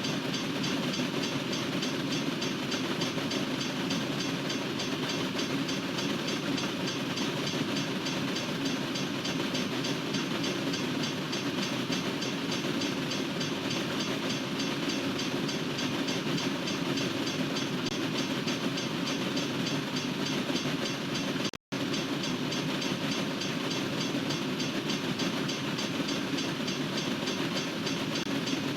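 Freight train cars rolling past, a steady rumble and clatter of steel wheels on the rails. The sound cuts out for an instant about three quarters of the way through.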